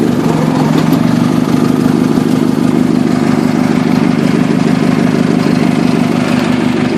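Old Cub Cadet garden tractor's engine running steadily at an even pitch while it climbs with its front end up on another tractor.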